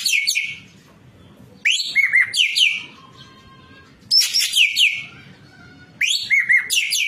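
Ekek keling singing loud, fast bouts of sharp chattering notes that sweep downward from high to lower pitch. There are four bouts, each about a second long, with short pauses between them.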